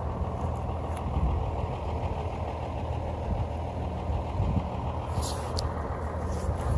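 A diesel engine on a rail maintenance work train idling steadily, a low even rumble. A brief high chirp comes about five seconds in.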